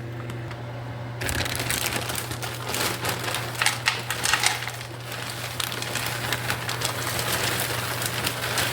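Plastic bag of frozen lo mein crinkling, with the frozen pieces inside rattling and clicking irregularly as the bag is rummaged through, starting about a second in. A steady low hum runs underneath.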